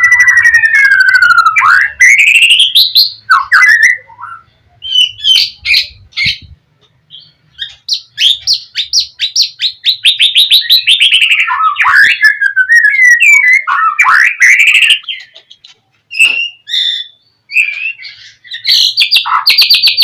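A songbird singing a loud, varied song: long whistles gliding up and down, fast rattling trills and sharp chips, in phrases broken by a few short pauses.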